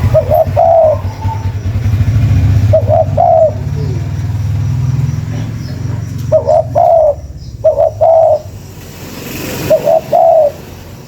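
Spotted dove (tekukur) cooing: five phrases, each two or three short notes followed by a longer drawn-out coo. A low rumble runs under the first two-thirds and fades out.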